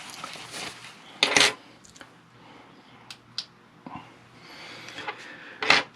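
Small parts and tools of a cassette recorder mechanism being handled on a work surface: light clicks and rustling, with two sharper clacks, one about a second in and one near the end.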